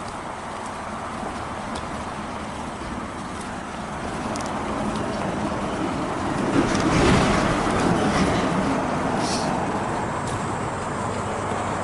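Honda CB750K's air-cooled inline-four engine running on the move, mixed with wind and road noise; the sound swells for a second or two about seven seconds in, then settles.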